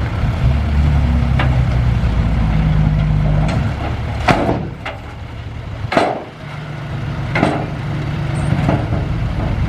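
Heavy diesel engine of an earthmoving machine running steadily, easing off for a few seconds midway and then picking up again. Sharp short clanks or squeals come about seven times along the way.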